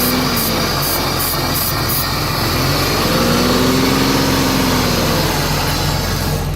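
1999 Chrysler Sebring engine running after sitting about four years, kept alive on ether because the fuel pump is bad. Its pitch swells up and falls back once midway. A regular high hissing tick, about two or three a second, runs through the first two seconds.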